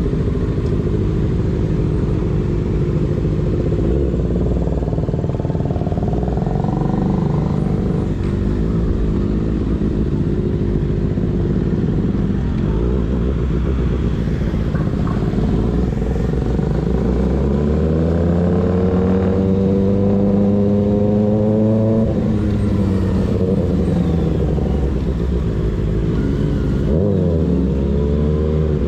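Sport motorcycle engine with a baffle-less slip-on exhaust running under way, over steady wind and road noise. About two-thirds of the way in it pulls up through the revs for several seconds in a rising note, then eases off, and it revs up briefly again near the end.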